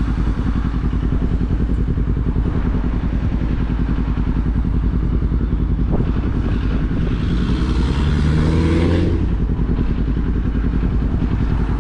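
Kawasaki motorcycle engine running at road speed, with heavy wind rumble on the helmet microphone. About seven seconds in the engine revs up with rising pitch as the bike accelerates, then drops back a couple of seconds later.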